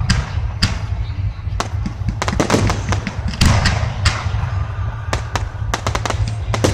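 Fireworks exploding, a run of sharp bangs and crackles, some in quick clusters of several at once, over a steady low rumble.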